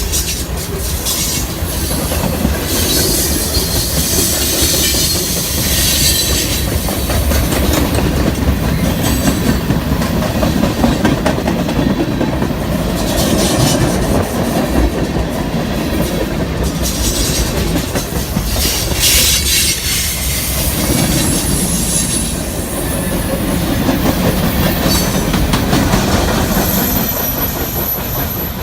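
Train cars rolling past: a steady rumble of wheels on rail with clacking, and high wheel squeal that comes and goes several times.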